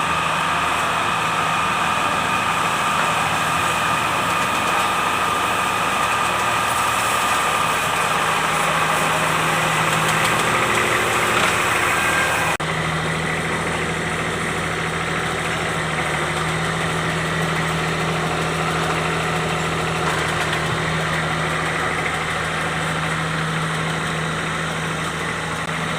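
Kubota D905 three-cylinder diesel engine running steadily at idle, with a brief break about halfway after which it continues with a slightly different tone.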